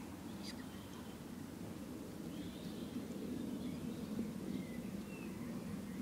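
Quiet steady low background noise, with a few faint, brief bird chirps scattered through it.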